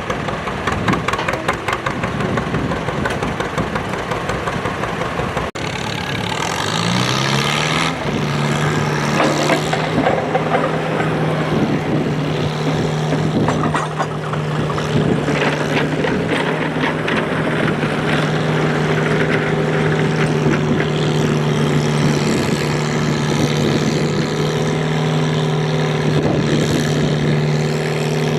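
Antique farm tractor engine running loud and rough. About six seconds in, its pitch rises and then holds steady at high revs.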